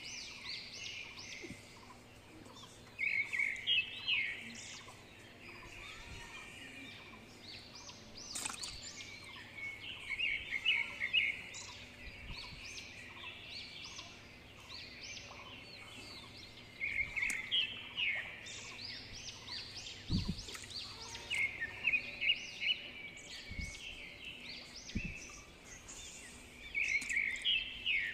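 Birds chirping, in bursts of quick repeated high notes every few seconds, over a faint steady background.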